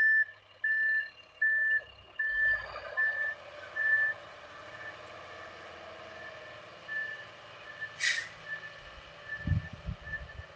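A vehicle's reversing alarm beeping one steady note about every three-quarters of a second, loud for the first four seconds and then fainter as it keeps going. A brief sharp high sound comes about eight seconds in.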